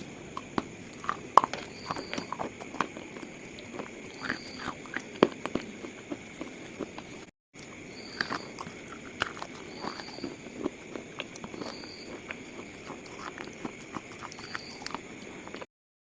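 Pieces of slate being crushed and crumbled, an irregular stream of small sharp crunches and cracks over a steady hiss. The sound cuts out briefly twice, about halfway through and near the end.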